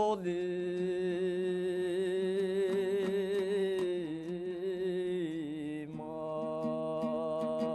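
A man singing a Kazakh folk song, holding a long note with wide vibrato that sinks lower before he moves to a new note about six seconds in, over steady strumming of a dombra.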